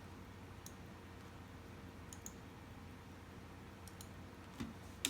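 Faint, scattered clicks of a computer mouse, about seven at irregular intervals, over a low steady hum.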